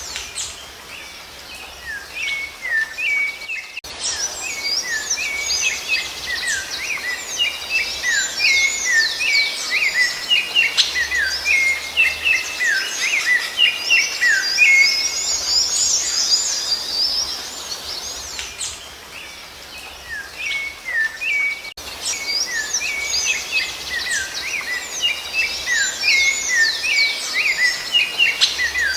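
Rufous-bellied thrushes (sabiá-laranjeira) singing: a dense run of quick chirps and short whistled, gliding notes. The song eases off for a few seconds about two-thirds of the way through, then picks up again.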